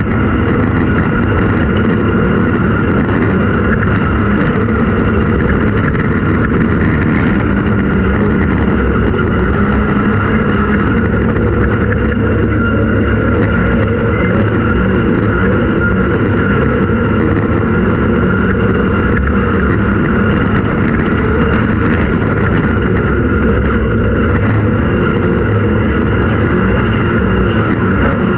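Off-road race vehicle's engine running hard at steady revs, with a dense rumble underneath.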